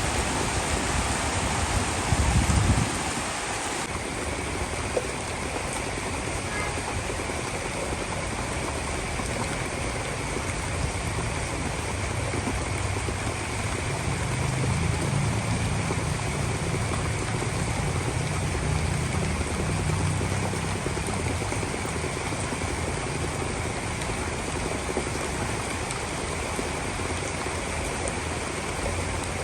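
Heavy rain pouring steadily in a storm. There is a short, loud low burst about two seconds in, and a low rumble swells through the middle and then fades.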